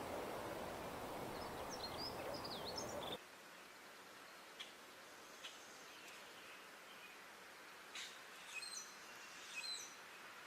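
Small birds giving quick high chirps over a steady background hiss that cuts off suddenly about three seconds in, followed by a few scattered short chirps over a quieter background.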